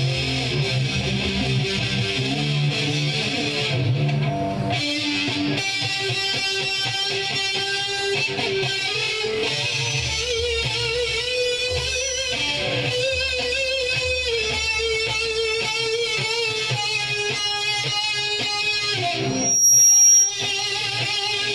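Electric guitar played through an amplifier, a run of strummed chords and picked notes. Near the end comes a brief, loud, high-pitched tone.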